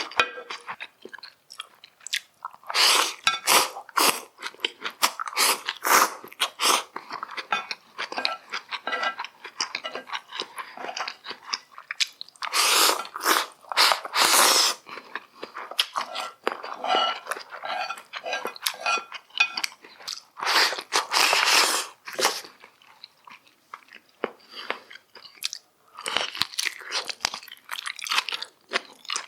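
Close-miked eating sounds: a person biting and chewing, with wet crunching in irregular bursts and short pauses, louder spells about three seconds in, near the middle and about two-thirds of the way through.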